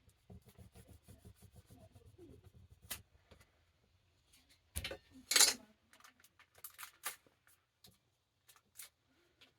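Hands rubbing and pressing tape down on a book's binding to work out trapped air bubbles: light rubbing and small clicks, with a loud raspy rustle about five seconds in.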